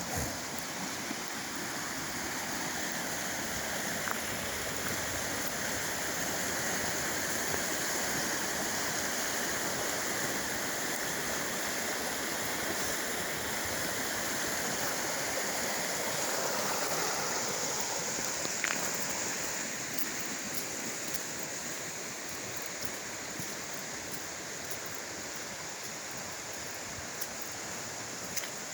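Creek water running steadily, a little louder through the middle and easing slightly near the end.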